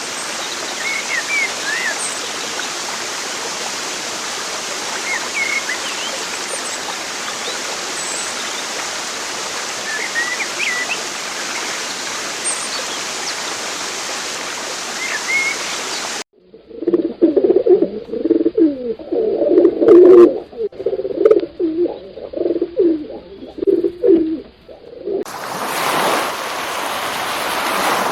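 Running water with small, high bird chirps scattered over it. About sixteen seconds in it cuts to a louder recording of low, repeated cooing calls. Near the end it cuts again to a steady rush of water like surf.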